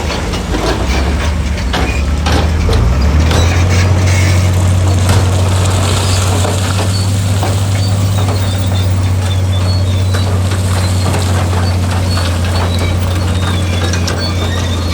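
Heavy diesel earthmoving machinery running steadily under load, its engine note stepping up about three seconds in, with frequent clanks and crunches of rock and metal.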